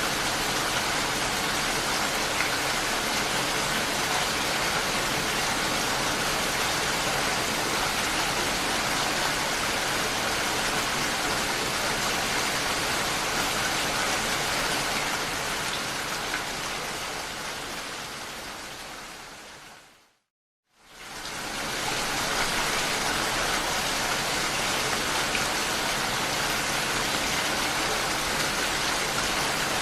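Steady rain, an even hiss of many drops with no distinct strokes. About two-thirds through it fades out to a moment of complete silence, then fades quickly back in.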